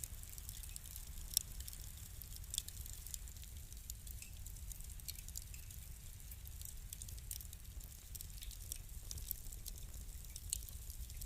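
Fire crackling: irregular sharp pops and snaps over a low steady rumble, with one louder pop about a second and a half in.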